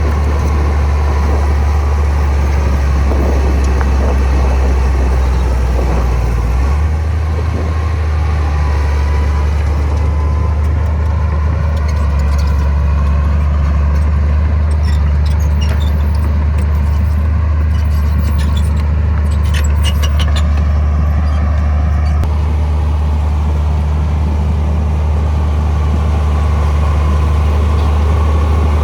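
Heavy diesel engine of earthmoving machinery running steadily, a deep drone whose note shifts slightly about seven seconds in. A cluster of light metallic clicks sounds around the middle.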